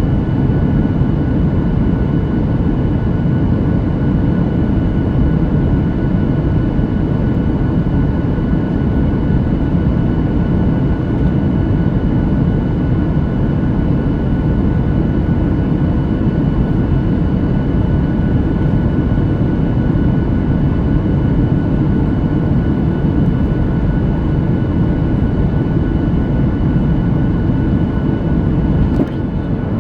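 Boeing 737-9 MAX airliner cabin noise in flight: a steady, dense low rumble of airflow and engines with faint steady tones above it, dipping briefly just before the end.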